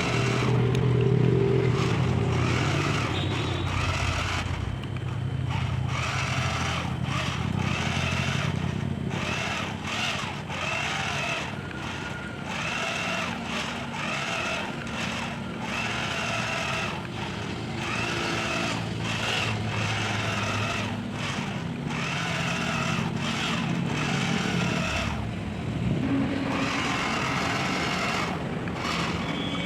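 Remote-control toy tractor running, an engine-like sound that keeps rising, falling and breaking off.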